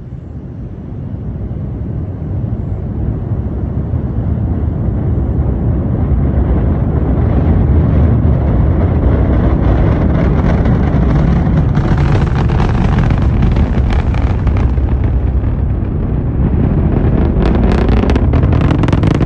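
Rocket launch roar arriving and building over several seconds into a loud, steady rumble, with sharp crackles near the end.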